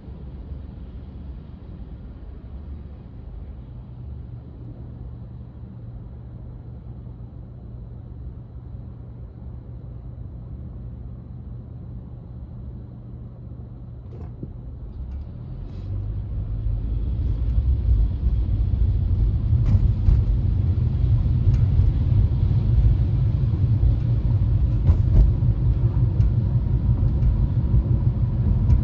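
Low rumble of a vehicle on the move, growing louder about sixteen seconds in, with a few faint ticks over it.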